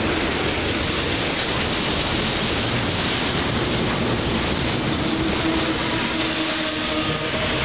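Union Pacific double-stack container train passing close by at speed: the steady, loud rush of steel wheels on rail.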